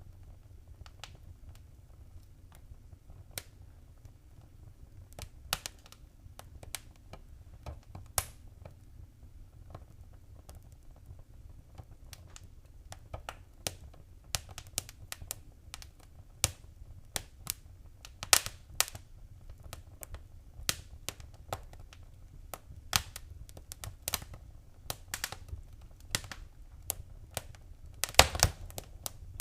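Wood fire in a fireplace crackling: irregular sharp pops and snaps over a low, steady rumble of flame, growing busier about halfway through, with a quick cluster of pops near the end.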